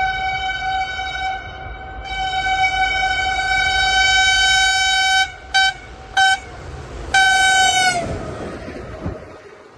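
Diesel locomotive horn sounding one steady note: a long blast, a second long blast, two short toots, then a last long blast whose pitch sags as it cuts off, over a low rumble.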